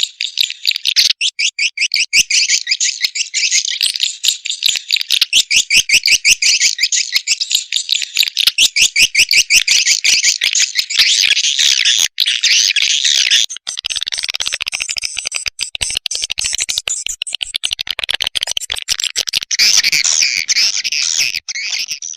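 Recorded swiftlet calls used as a lure sound for swiftlet houses: high, buzzy chittering twitters. They come as a fast, regular run of short pulses at first, then thicken into a denser, continuous chatter a little past halfway.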